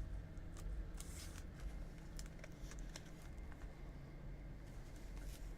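Faint handling of trading cards: a few light clicks and a brief rustle about a second in, over a low steady room hum.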